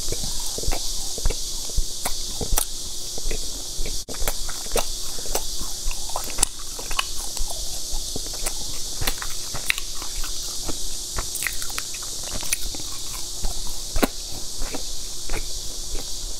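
Close-up chewing of crunchy, syrup-glazed fried dough pastries: irregular crisp crackles and mouth sounds, over a steady high-pitched hiss.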